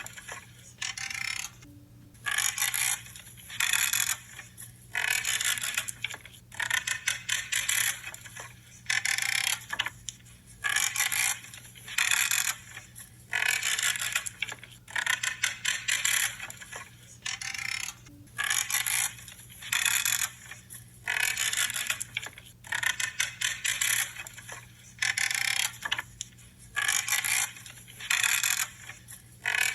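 Branches being cut one after another, each cut a short crunching, creaking crackle lasting under a second, repeating about once every second or so.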